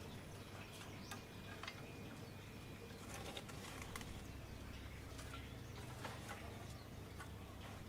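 Faint scattered light clicks and rustles over a low steady hum.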